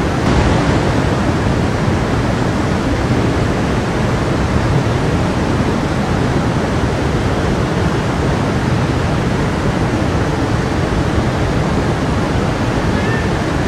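Stream of water running over rocks, a steady rushing that stays even throughout.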